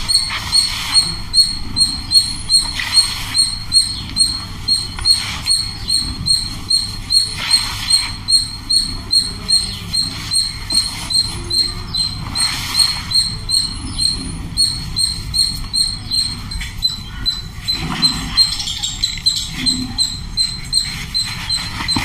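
A bird chirping over and over, a short high chirp about twice a second in an even rhythm. Under it, dry powder hisses softly in several brief spells as hands scoop and crumble it.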